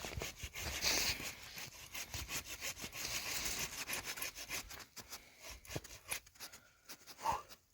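Rough scraping and rubbing strokes on wood, in an uneven run that thins out after about five seconds.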